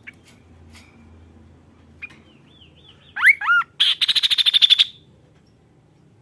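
Kaso-kaso songbird singing. A few short chirps come first, then two loud looping whistles, then a loud, very fast trill lasting about a second.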